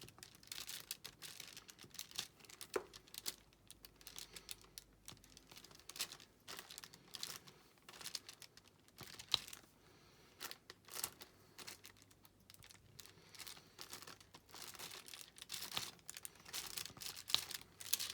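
Irregular small clicks and crinkles of diamond painting: resin drills being pressed one after another onto the sticky canvas with a placing tool.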